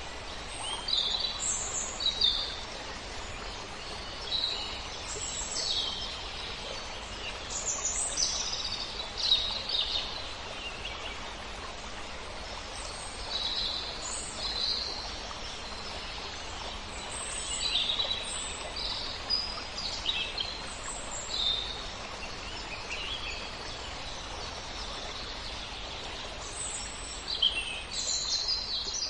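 Small birds chirping in short, high calls that come in scattered clusters, over a steady rustle of wind through leaves.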